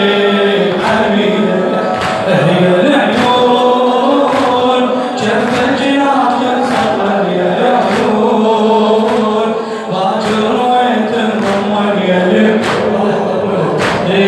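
A male voice chanting a Husseini lament poem in long, drawn-out melodic lines over a steady beat of sharp strikes about every two-thirds of a second.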